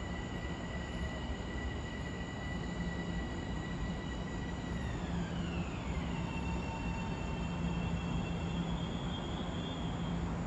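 Metro-North commuter train running through the station: a steady low rumble with a high whine that falls in pitch partway through.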